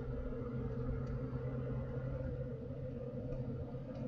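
Steady drone of a vehicle's engine running, heard from inside the cabin, with a constant low hum and rumble.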